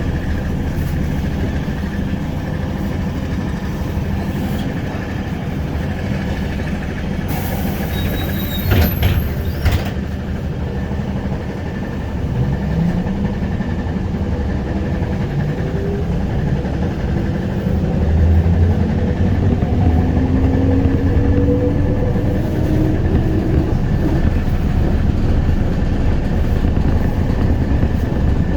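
ZiU-682G trolleybus running, heard on board, with steady rumble and road noise. About eight seconds in there is a brief burst of hiss with a few knocks. From about twelve seconds in, the electric traction motor's whine rises in pitch as the trolleybus picks up speed.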